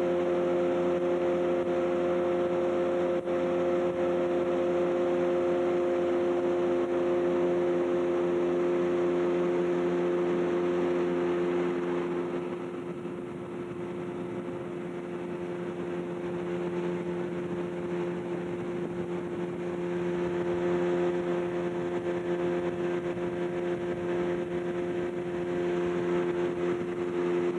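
Outboard motor on a fishing boat running at a steady cruising speed, a constant engine note that dips a little in loudness about halfway through and then comes back up.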